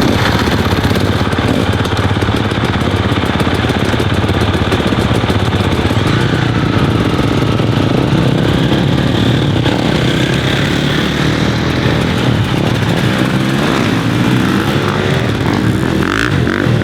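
KTM dirt bike engine running hard and steadily, with the pitch rising and falling near the end as it revs.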